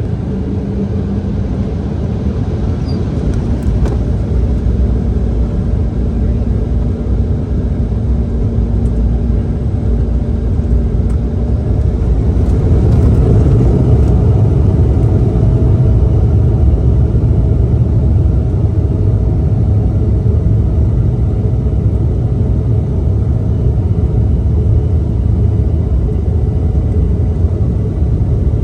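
Cabin noise inside an Embraer E170 jet: a steady rumble of its General Electric CF34-8E turbofan engines and airflow, growing louder about twelve seconds in, with a faint steady whine.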